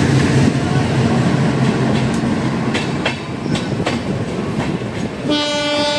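Passenger train running, with a steady rumble of wheels on the track and a few clicks over rail joints about three seconds in. Near the end a locomotive horn starts and holds one steady note.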